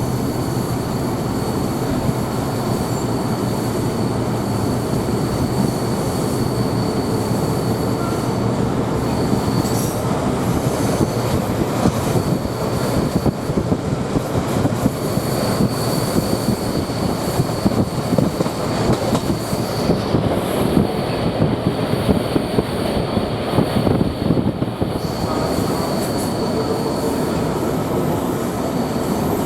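D1 diesel multiple unit running along the line, heard from inside the carriage: a steady rumble of wheels on rail with a fast rattle and clatter over the track. A thin high whine comes and goes several times.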